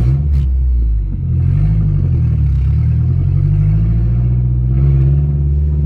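Mazdaspeed6's turbocharged 2.3-litre four-cylinder running loud through an open downpipe as the car pulls away. The engine note dips about a second in, wavers up and down, then rises again near the end.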